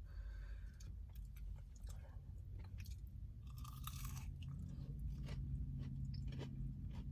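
Close-up chewing of a breaded jalapeño popper, with scattered crunches and mouth clicks.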